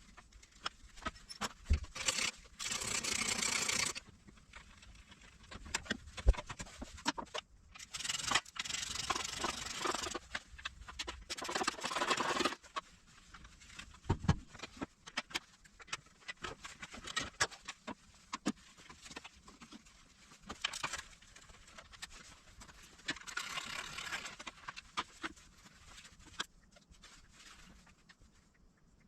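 Hand-tool work on a K6A engine during head gasket removal: scattered clicks and knocks of metal tools and parts, with several scraping or rustling bursts lasting a second or two.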